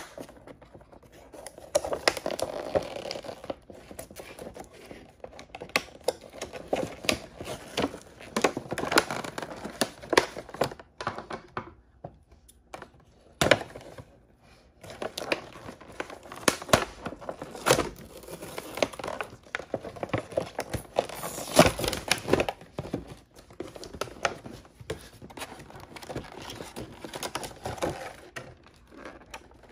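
Plastic and foil toy packaging crinkled and torn open by hand, in irregular bursts of crackling and rustling with a few short pauses.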